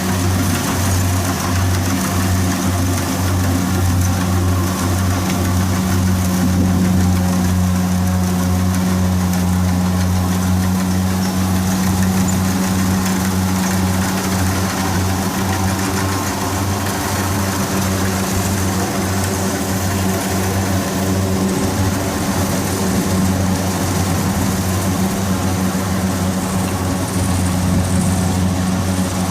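Kubota DC60 combine harvester's diesel engine running steadily, a constant even drone with no change in speed.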